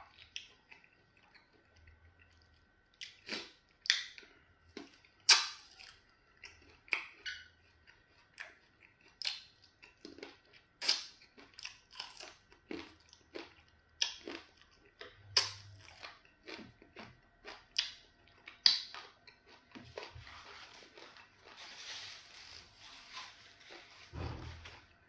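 A person chewing chicken, a sharp irregular run of wet smacking and crunching mouth sounds. Near the end come a few seconds of soft hiss and a low thump.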